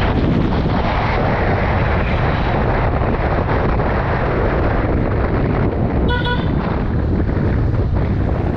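Wind buffeting the microphone over the noise of a motorcycle riding along a road, with one short vehicle horn honk about six seconds in.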